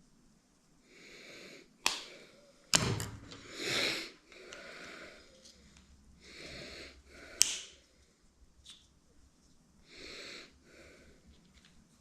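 A person breathing heavily in short, noisy puffs, with a few sharp clicks and a dull knock of metal parts being handled.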